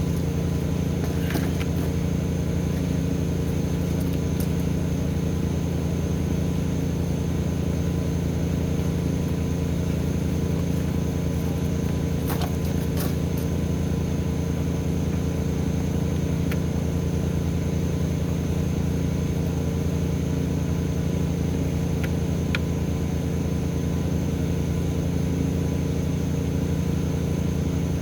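An engine idling steadily with an even low hum, a few faint clicks over it.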